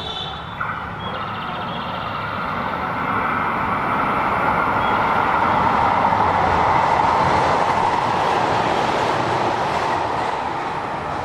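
JR Shikoku 2000 series three-car diesel limited express train passing through the station at speed without stopping. The diesel engines and the wheels on the rails grow louder over the first few seconds, are loudest a little past the middle, then fade as the train goes by.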